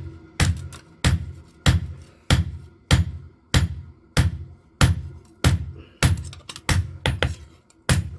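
Hammer blows forging a knife blade on an anvil, struck in a steady rhythm of about three blows every two seconds, each a sharp hit with a dull thud. Lighter extra taps come between the main blows in the second half.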